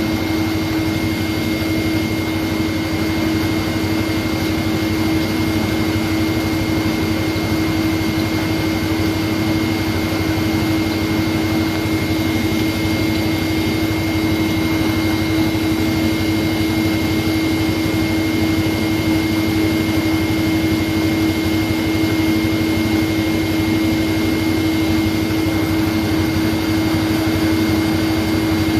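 Steady machine hum with a constant low tone and a fainter high whine, unchanging throughout.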